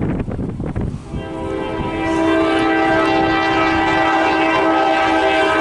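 CSX diesel locomotive air horn sounding one long, steady multi-note chord, starting about a second in after a low rumble.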